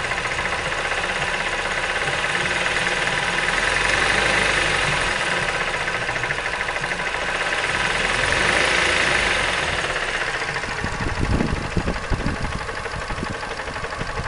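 Mazda 3 engine running with a rapid knock, swelling briefly about four seconds and about nine seconds in, with a few louder thumps near the end. The knock comes from the fourth cylinder, where a sunken cylinder liner left after a poor rebuild has broken the piston.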